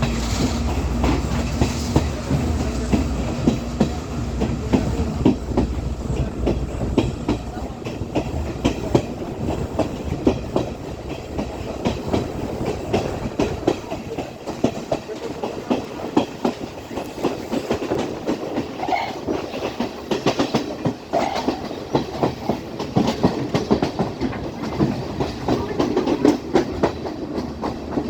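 Class S12 diesel multiple unit running along the line, its wheels clattering steadily over the rail joints. A low drone is strong for the first several seconds, then fades.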